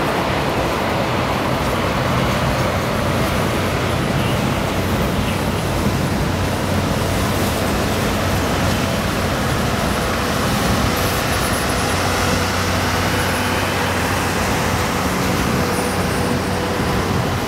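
Freight boxcars and then passenger cars of a Canadian Pacific train rolling past: a steady, loud rumble of wheels on the rails.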